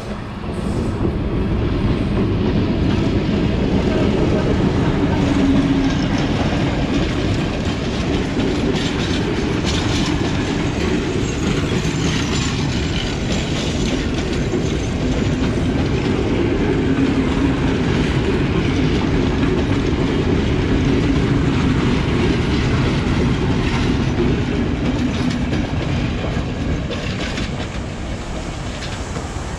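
A diesel-hauled passenger train passing close by. It grows loud about a second in, then the coaches rumble past with wheels clicking over the rail joints, and it eases off slightly near the end.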